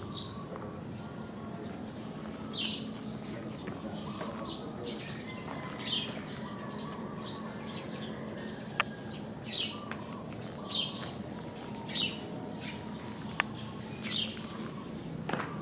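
Birds chirping: short, high calls repeating every second or two over a steady low background noise, with two sharp clicks, one past the middle and one near the end.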